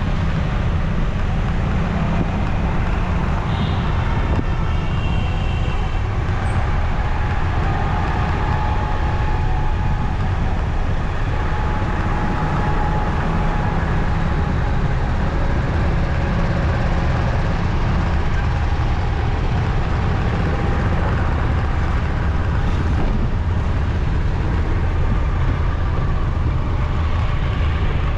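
Steady rumble of a motorcycle riding through city traffic, engine and road noise together, with a few faint higher tones from the traffic a few seconds in.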